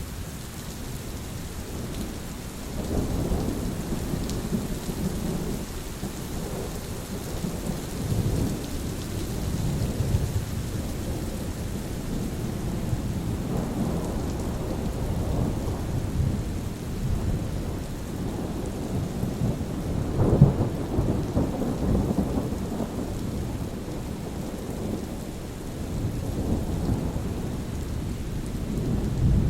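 Steady rain falling, with rolling thunder rumbling in long low swells, a sharper crack-like peak about two-thirds of the way through.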